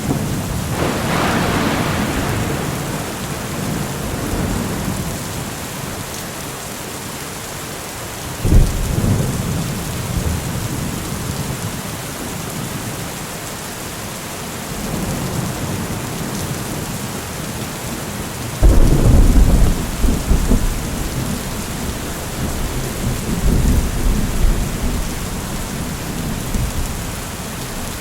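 Steady rain falling in a thunderstorm, with several rolls of thunder: one about a second in, a sharper one near a third of the way through, and the loudest, starting suddenly, about two-thirds through.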